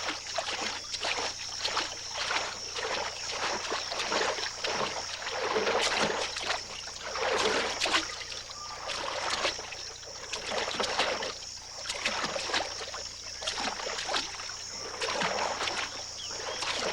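Marsh deer running through shallow floodwater, a quick irregular run of splashes that swell and fade.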